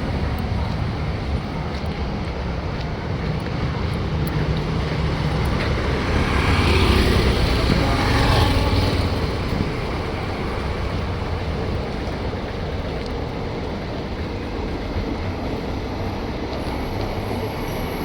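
Indian Railways train running with a steady low rumble and rushing noise, growing louder about seven to nine seconds in, then settling back.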